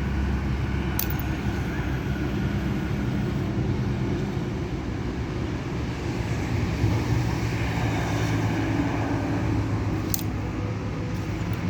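Steady background road traffic noise: a low rumble with a faint hum. Two short clicks, about a second in and near the end.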